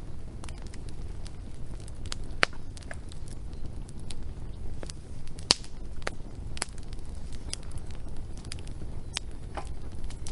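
Wood fire crackling, with irregular sharp pops of varying loudness over a steady low rumble; the two loudest pops come about two and a half and five and a half seconds in.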